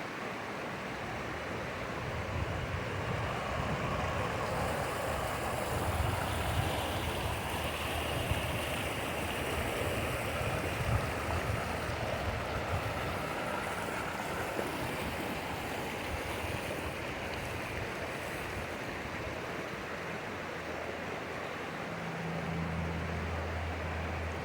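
Steady rushing of a mountain stream flowing over rocks. A low steady engine hum joins near the end.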